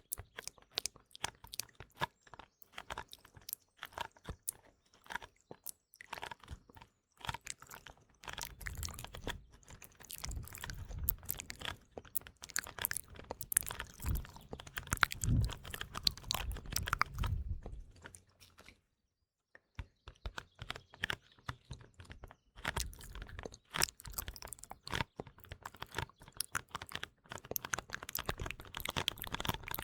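Close-miked ASMR mouth sounds, quick wet clicks and smacks, mixed with rapid fingertip tapping on a small box. From about 8 to 18 seconds in the taps are heavier and deeper, and there is a brief pause near 19 seconds.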